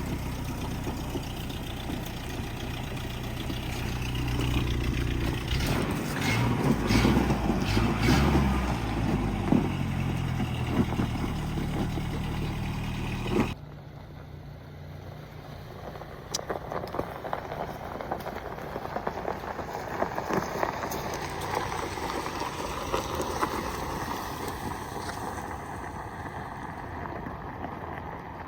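Pickup truck engine running, its pitch rising and falling for a few seconds in the middle of the first half. It then cuts off suddenly to quieter outdoor noise with scattered clicks and knocks.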